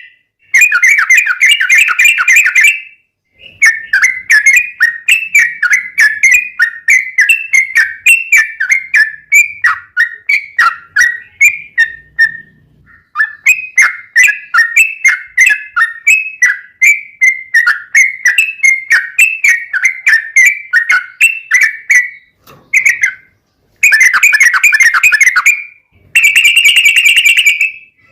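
Sooty-headed bulbul (trucuk) singing a fast, continuous run of loud whistled notes, with phrases like a straw-headed bulbul's, in long bursts broken by a few short pauses.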